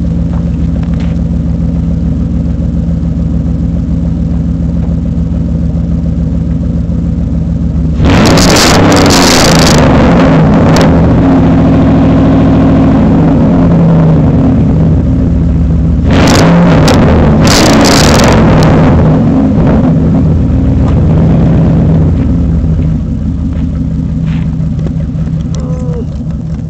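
2002 Dodge Ram 1500's 4.7-litre V8, with headers and a straight-piped exhaust, idling steadily, then revved hard about eight seconds in and held for several seconds before falling back. It is revved again briefly a little later, then settles back to idle and fades slightly near the end.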